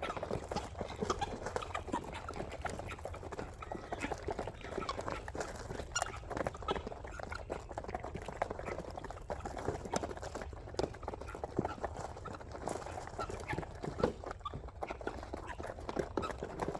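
A mixed flock of chickens, ducks and guinea fowl calling and clucking, many short overlapping calls without a break.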